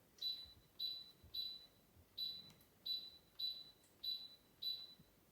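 Electric fireplace's control unit giving eight short, identical high-pitched beeps, about one every half to three-quarters of a second, each answering a button or remote press as the flame lighting modes are stepped through.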